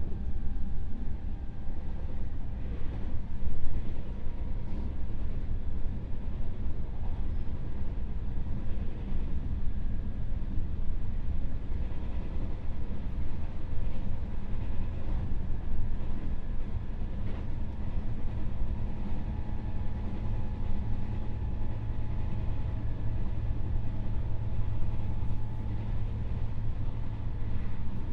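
JR West 221 series electric train running, heard inside the motor car: a steady rumble of wheels on rail with motor hum that grows stronger in the second half. A few short clicks rise above it.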